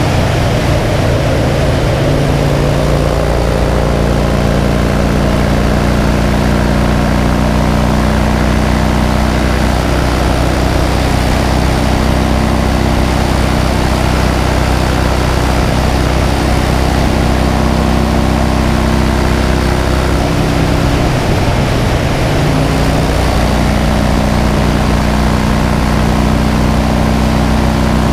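2009 Harley-Davidson Crossbones' Twin Cam 96B V-twin running at steady cruising speed, with wind and road noise over it. The engine note shifts briefly about three-quarters of the way through, then settles back.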